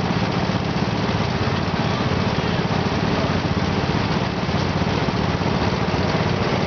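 Garden tractor engine running steadily, at an even level with no revving up or down.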